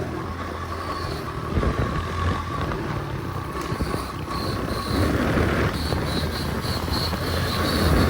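An engine running fairly steadily, with wind buffeting the microphone.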